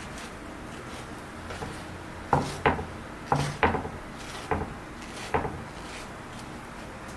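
Six sharp, irregularly spaced knocks over a steady low hum, like wooden kitchen things being set down or handled.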